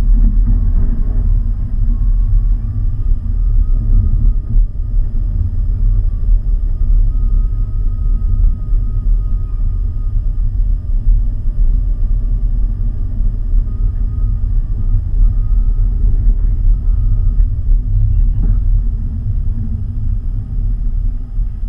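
A car driving: a steady, loud low rumble of engine and road noise, with a faint thin whine holding steady above it.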